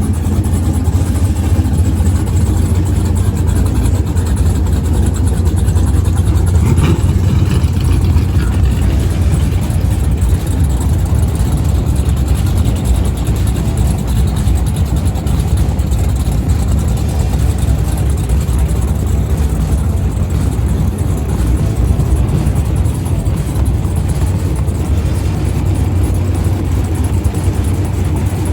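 A car engine running steadily with a low, even rumble, with a brief extra noise about seven seconds in.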